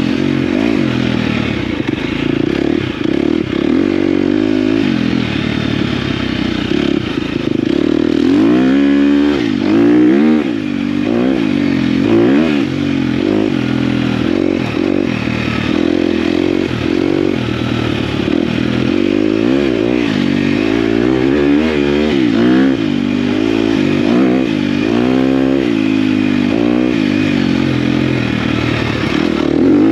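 KTM dirt bike engine being ridden, its pitch climbing and dropping over and over as the throttle is opened and closed.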